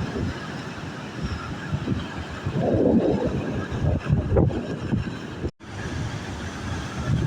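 Rough sea: waves surging and breaking on the shore, with wind buffeting the microphone. A wave swells up loudest about two and a half seconds in, and the sound cuts out for a moment about five and a half seconds in.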